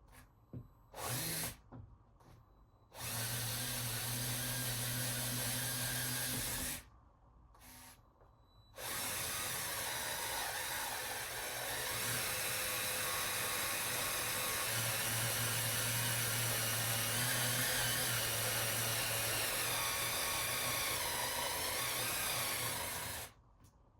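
Power drill with a long bit extension driving a screw to mount a smoke detector base: two short blips, then a steady run of about four seconds, a pause, and a long run of about fourteen seconds.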